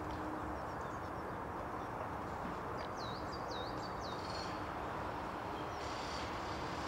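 A small songbird gives four quick, high, dipping notes about three seconds in, followed by faint high twittering, over a steady low background rumble.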